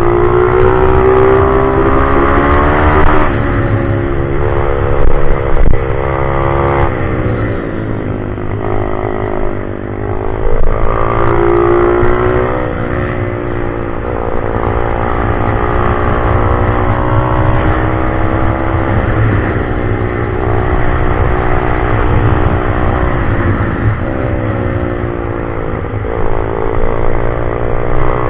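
Pit bike's small single-cylinder engine being ridden hard, its pitch climbing and falling again and again as the throttle is opened and closed.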